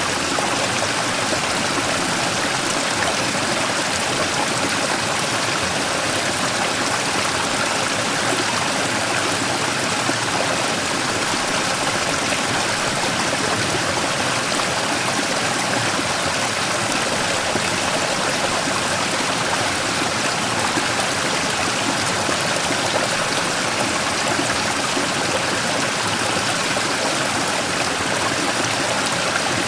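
Mountain stream running and splashing over a large rock in a small waterfall, a steady even rush of water.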